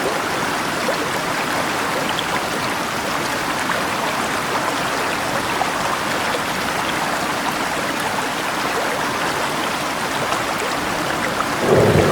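River water rushing with rain falling, a steady, even hiss. Just before the end a louder, lower sound swells in.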